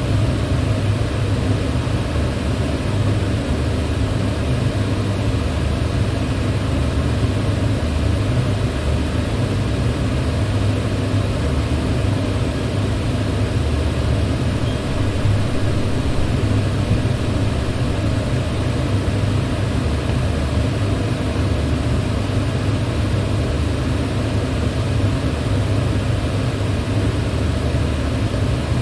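Electric fan running steadily: an even rush of moving air over a low hum, with no change in speed.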